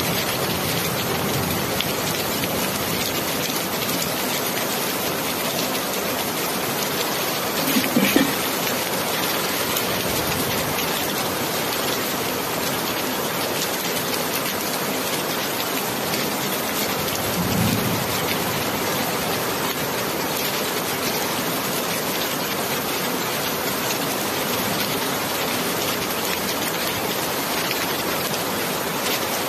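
Steady heavy rainfall, a dense even hiss of rain on surfaces. Two brief louder low thuds break through, one about a quarter of the way in and one a little past the middle.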